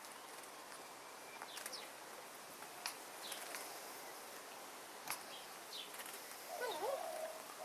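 Birds calling faintly: short scattered chirps and squeaks, several falling in pitch, with a lower wavering call near the end.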